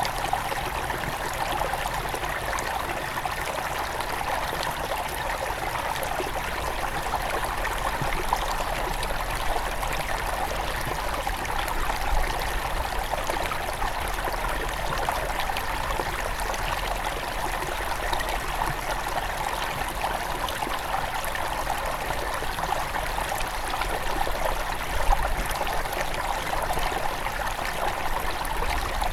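A small mountain river near its source running over stones: a steady babbling and trickling of flowing water.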